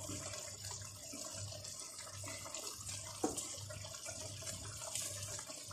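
Butter chicken curry sauce simmering in a pot: a steady hiss of cooking liquid, with a single light knock about three seconds in.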